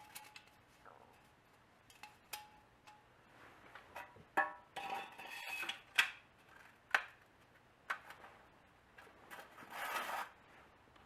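Thin sheet-metal cans being handled and fitted together: a run of sharp clinks and knocks with brief metallic ringing, and stretches of metal scraping against metal.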